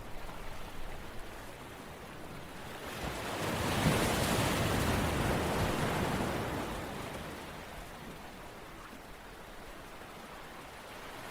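A wave washing in: a rush of water noise swells about three seconds in and dies away by about eight seconds, over a steady background hiss.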